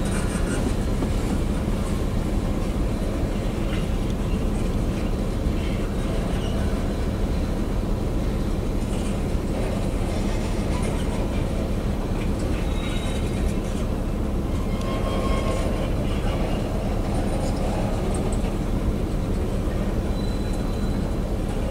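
Freight cars (boxcars and tank cars) rolling past: a steady rumble of steel wheels on the rails, with brief high squeals here and there.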